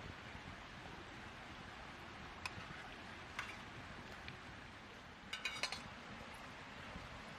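Light clinks of eating utensils against metal camp cookware: a few single taps, then a short cluster of ringing clinks about five seconds in, over a steady low hiss.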